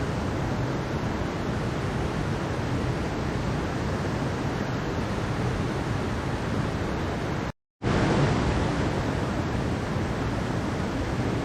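Steady rushing of a mountain-valley stream, an even wash of flowing water. It drops out completely for a split second about seven and a half seconds in, then carries on unchanged.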